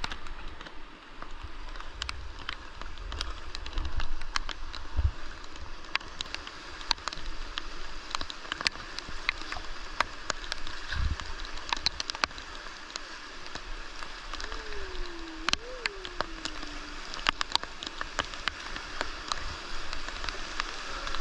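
Rain falling on the river and raft: a steady hiss dotted with many sharp drop splashes, over the rush of river water.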